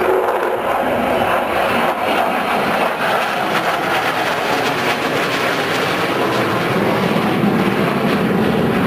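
Military aircraft engine noise from an aircraft in flight: a loud, steady roar that grows deeper near the end.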